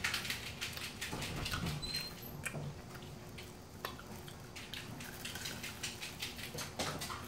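Close-up chewing of crispy fried chicken: a steady scatter of short, crisp crunches and mouth clicks.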